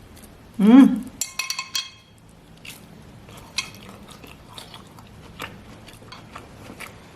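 A short voiced hum, then a quick run of clinks from cutlery against a dish, followed by scattered soft clicks of chewing.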